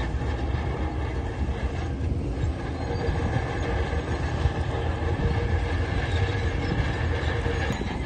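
Heavy tracked construction machine with its diesel engine running steadily, a deep rumble with a constant whine and mechanical clatter over it.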